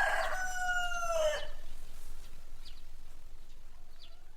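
Rooster crowing: the last part of a long drawn-out crow, falling slightly in pitch and breaking off about a second and a half in. A quieter background with a few faint short bird chirps follows.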